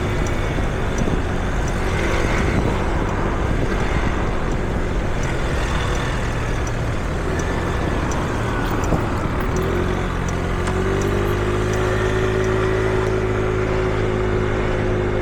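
City street traffic: motor vehicles running and passing. From about ten seconds in, one engine drones at a steady pitch close by.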